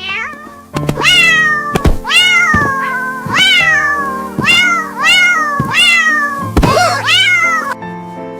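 A cat meowing about seven times in a row, each meow rising then falling in pitch, over soft background music.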